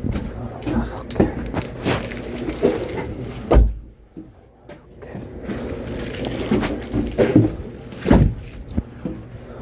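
Split firewood being handled and stacked: irregular wooden knocks and clatter, with two heavier thumps, one near the middle and one near the end, as logs or bundles are set down.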